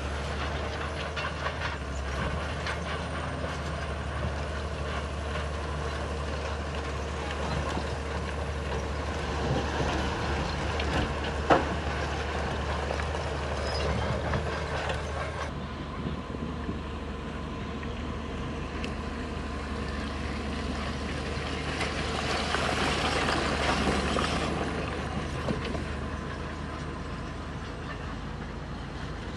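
Heavy diesel earthmoving machinery running steadily under load. There is one sharp knock about eleven seconds in, and the sound briefly grows louder about two-thirds of the way through.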